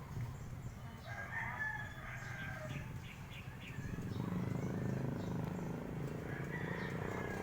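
A rooster crowing once, beginning about a second in, over a low steady hum.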